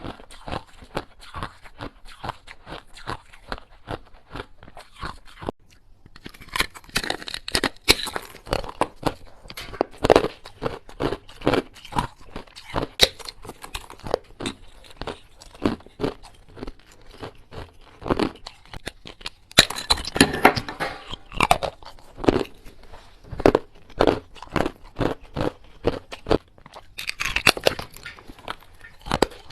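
Small hard ice being bitten and chewed close to the microphone: a steady run of sharp crunches, about two a second, with three longer, denser spells of crunching.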